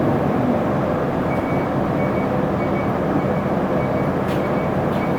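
Isuzu Erga city bus running, its engine and road noise heard from inside the cabin. From about a second in, a short high beep repeats roughly every 0.6 seconds.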